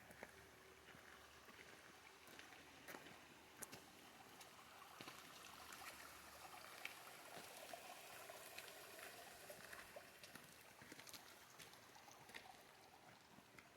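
Near silence: faint outdoor ambience with a few scattered faint clicks.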